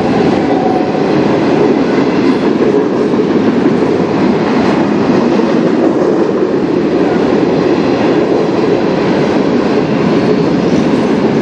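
Freight train's covered hopper cars rolling past: a steady rumble and rattle of steel wheels on rail.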